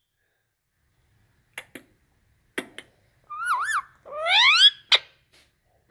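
Indian ringneck parakeet making a few soft clicks, then a short warbling whistle and a rising whistled call a little over three seconds in, followed by a sharp click.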